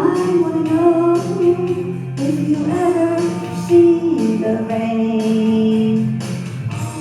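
Karaoke backing track with a voice singing over it, holding one long note in the second half.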